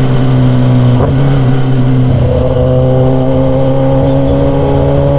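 Kawasaki ZX-10R's inline-four engine through a loud SC Project aftermarket exhaust, running loudly at nearly steady revs, its pitch rising slightly about two seconds in.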